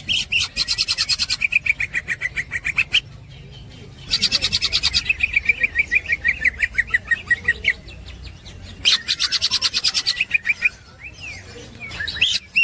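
Green leafbird (cucak ijo) singing its fast chattering 'ngekek' song: rapid runs of sharp repeated notes, about ten a second, in four bouts of a few seconds each separated by short pauses.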